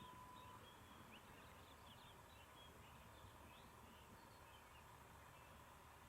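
Faint outdoor ambience of small birds chirping, many short high calls scattered throughout, over low background noise. A thin steady tone stops about half a second in.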